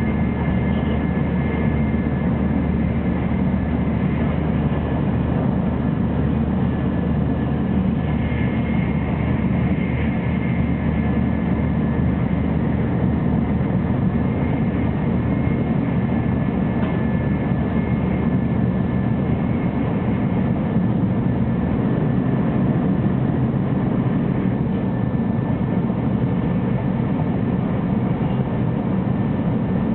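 Running noise of a 300 Series Shinkansen at speed, heard inside the passenger cabin: a steady low rumble of wheels on rail and rushing air, with two faint, steady high tones.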